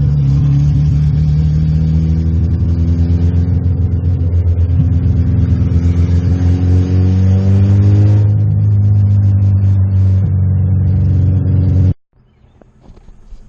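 VW Golf's rebuilt 2.0 AEG four-cylinder engine with a big cam, driving under load: the engine note climbs steadily for several seconds, then drops as it eases off. The sound cuts off abruptly near the end. A code scan on the same drive reports a random misfire on cylinder 4.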